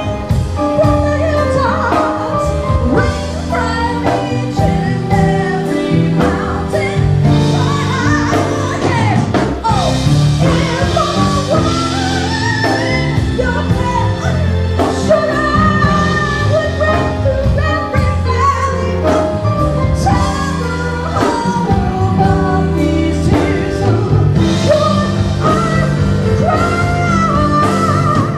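Live soul ballad: a woman singing long, wavering, melismatic lines over a band playing held chords and bass with a steady beat.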